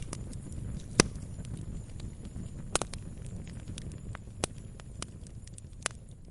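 Wood fire in a fireplace crackling: many small sharp snaps over a low steady rumble of the flames, with a few louder pops, the loudest about a second in.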